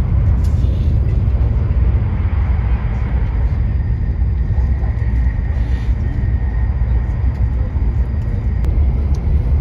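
Train running noise: a steady low rumble with an even hiss above it.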